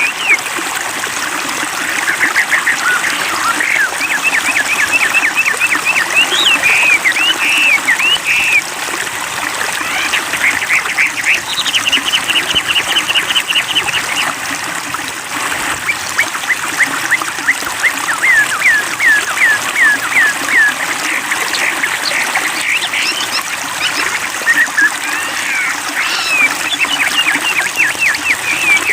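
Wambi bird singing in runs of rapid, repeated sharp notes, over steady trickling water.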